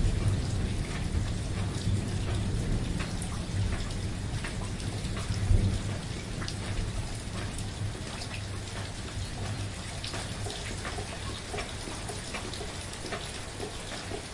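Steady rain with scattered individual drop hits, over a low rumble of thunder that swells about five seconds in and then fades away.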